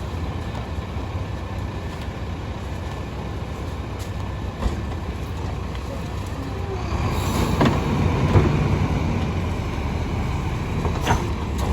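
Split-body garbage truck's diesel engine running, getting louder for a few seconds past the middle, with a few sharp metal clanks.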